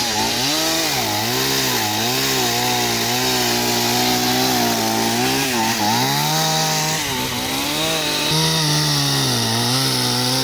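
Stihl chainsaw running at high revs while cutting a branch, its engine pitch dipping and recovering several times.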